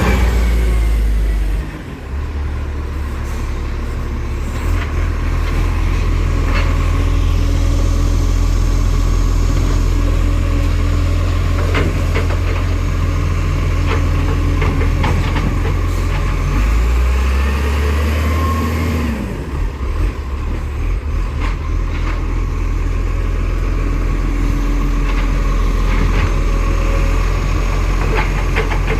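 Garbage truck's diesel engine running steadily, with a brief rise in pitch a little past halfway and scattered knocks.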